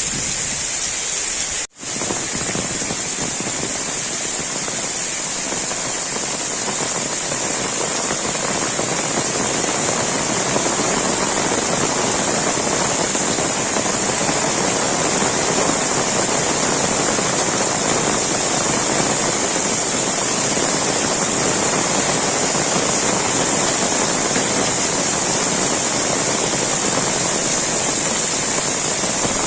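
Heavy rain falling steadily, a dense even hiss of downpour. It drops out completely for a split second about two seconds in.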